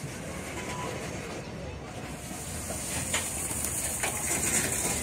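A freight train of covered hopper cars rolling past close by: a steady rumble of steel wheels on the rails with a few clanks, and a high hiss that grows louder in the second half.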